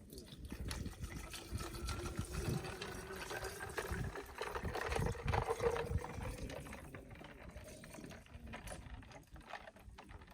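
Water running into a container, its pitch rising slowly as the container fills, then fading near the end.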